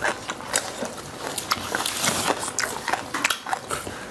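Close-miked chewing and crunching of crispy deep-fried red tilapia, an irregular run of sharp crackly clicks.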